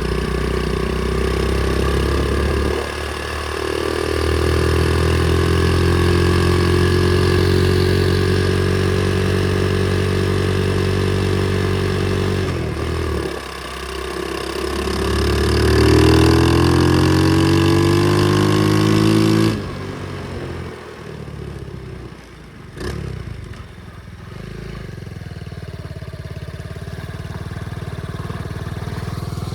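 Pit bike engine running on the move, its revs climbing about three seconds in and again from about fourteen seconds. The engine note drops off suddenly around twenty seconds as the throttle closes, a sharp knock follows a few seconds later, then the engine runs lower and steadier, slowly getting louder.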